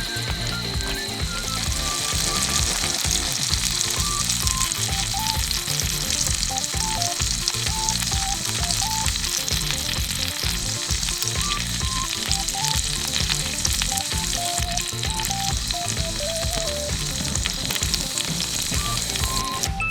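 Food sizzling and crackling steadily in a hot pan, with many fine pops and spits.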